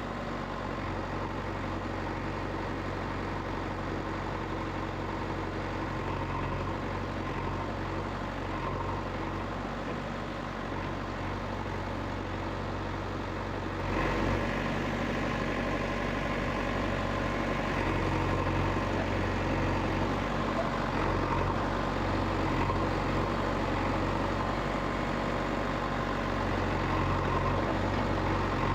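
Steady engine-like running hum that steps up a little in loudness about halfway through.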